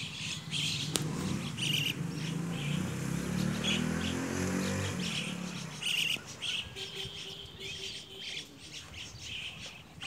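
Small birds chirping in short repeated calls. Underneath, in the first half, a low drone slowly rises in pitch, then fades out about five seconds in.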